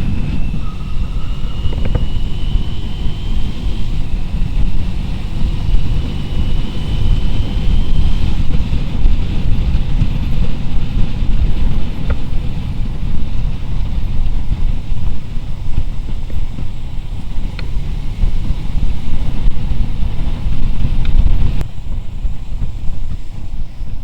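Motorcycle on the move: a steady engine and road rumble, with wind buffeting the microphone. A faint thin whine rises slowly over the first several seconds.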